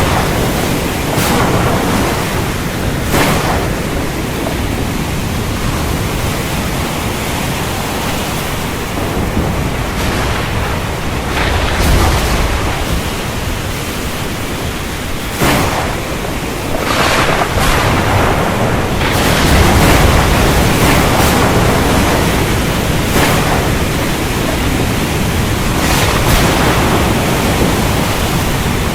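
Thunderstorm at sea: a steady, loud rush of rain, wind and choppy surf, with low thunder rumbling up about twelve seconds in and again around twenty seconds, and short louder surges of hiss several times.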